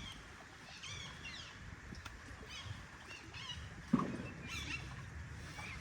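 Small birds chirping, short high calls and trills coming again and again, over a steady outdoor background hum, with one brief low sound about four seconds in.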